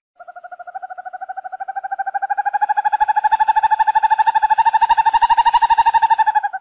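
An owl giving one long trill of rapid pulses, about a dozen a second, on a nearly steady pitch that creeps slightly upward. It grows louder over the first few seconds and stops abruptly near the end.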